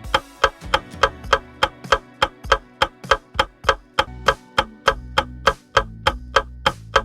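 Quiz countdown timer: background music under a steady clock-like ticking, about four ticks a second.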